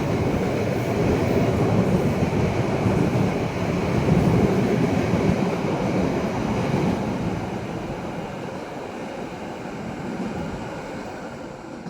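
Train running past a level crossing: a steady rumble of wheels on rails that slowly fades away over the last few seconds.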